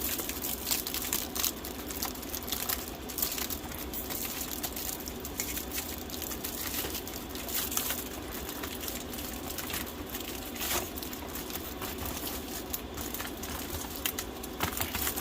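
Flexible ducting hose crinkling and rustling as it is handled and fitted, with many small crackles and clicks throughout.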